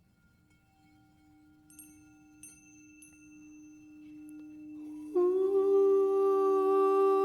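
Sound-healing music: a steady drone tone slowly swells, with three light chime strikes about two seconds in. About five seconds in, a loud sustained hummed vocal tone enters and holds one steady note.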